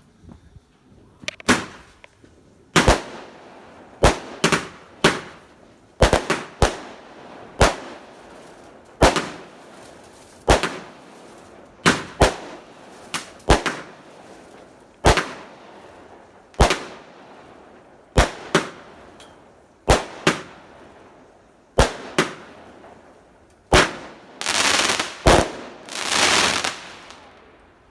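Consumer firework cake from Primed firing: a string of sharp shots, about one every second or so, sometimes two or three close together, each followed by a short crackle. Near the end it gives a longer spell of dense crackling.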